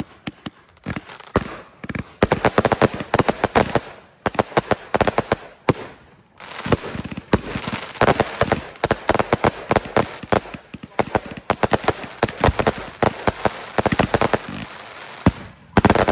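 Fireworks going off in rapid volleys of sharp bangs and crackles, broken by a few short lulls.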